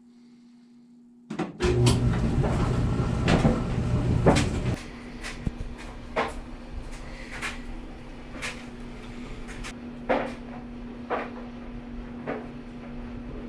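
Kenmore 400 clothes dryer starting up about a second in, loud at first, then settling into steady running with knocks about once a second as the drum turns. After the repair it now starts.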